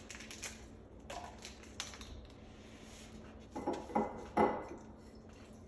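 Kitchenware being handled: a few light clinks and knocks, then a louder cluster of three sharp clatters about four seconds in.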